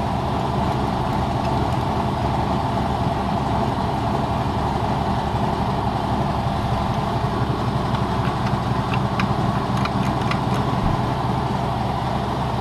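Air compressor running steadily, a constant mechanical hum, with a few light clicks from small metal parts being handled around the last few seconds.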